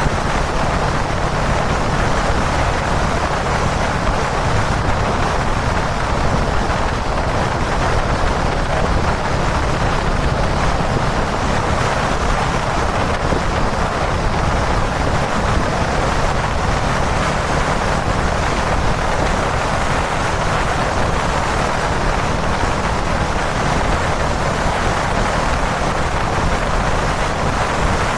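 Steady wind noise on the camera microphone over a motorcycle's single-cylinder engine running evenly at highway cruising speed: a Kawasaki Dominar 400 UG2 on the expressway.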